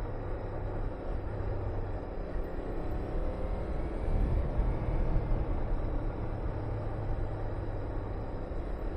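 Honda VTR250's V-twin engine running under way on the road, mixed with wind rushing over the microphone. The sound grows louder for about a second and a half around four seconds in.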